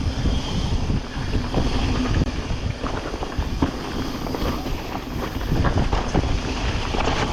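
Mountain bike descending a wet trail: wind buffeting the action-camera microphone over tyres rolling on wet dirt, with scattered knocks and rattles from the bike over rough ground.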